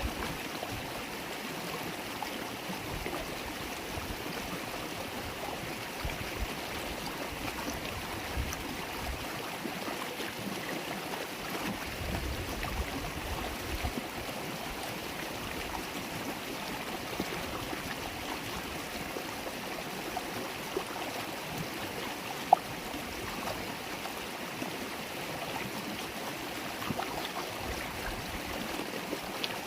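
River water babbling steadily over the streambed, an even rushing and trickling. A single sharp click cuts through about three-quarters of the way in.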